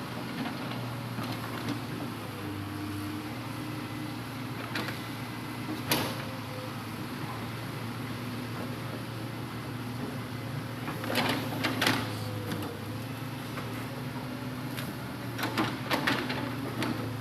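Hitachi Zaxis 200-5G excavator's diesel engine running steadily as it loads timber logs. A single sharp knock comes about six seconds in, and there are two bursts of knocks and clatters, one near the middle and one near the end.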